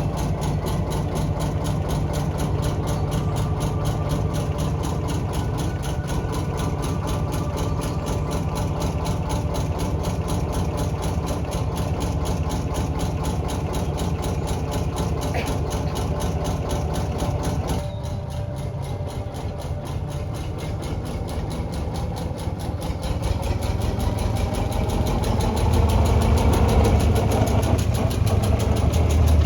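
Engine of a small narrow gauge railway locomotive running steadily with an even chugging pulse. About two-thirds of the way through it gets louder and deeper.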